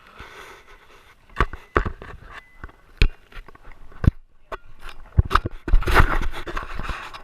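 Rubbing, scraping and irregular knocks on a dog-mounted action camera, its housing and harness jostling against the dog. The knocks come singly every second or so, with a longer stretch of rubbing about six seconds in.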